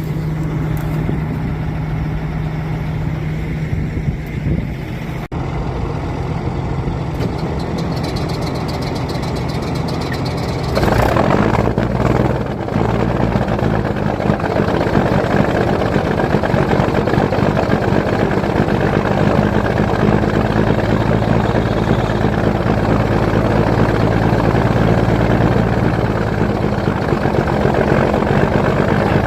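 Heavy diesel truck engine, an 855 Cummins, running. About eleven seconds in a louder, rougher engine sound comes in as the engine fires up, and it then runs on steadily while still cold.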